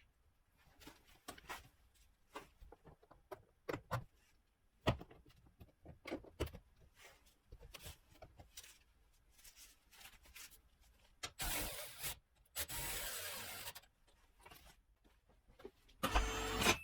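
Hand tools and parts being handled: scattered light clicks and knocks, then two longer rasping noises about two-thirds of the way through, and a louder rasping burst just before the end.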